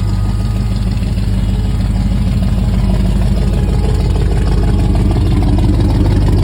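Ford 460 big-block V8 in a 1973 Ford F-250 idling steadily through glass-pack mufflers, getting slightly louder in the second half.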